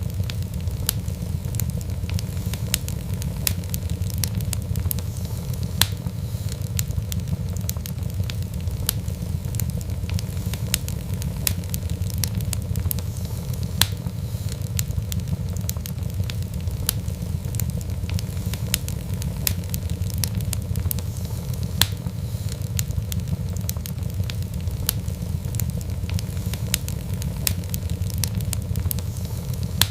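Wood fire burning, with a steady low rumble and frequent sharp crackles and pops, several a second.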